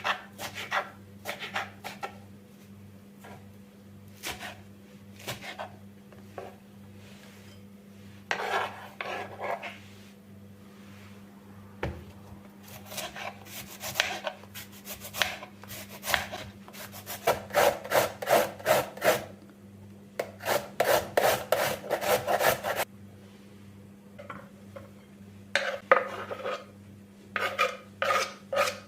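Back-and-forth rubbing strokes on a hard surface, like scrubbing with a sponge or cloth, coming in runs of two to three strokes a second with pauses between, the loudest run about two-thirds of the way through. A steady low hum runs underneath.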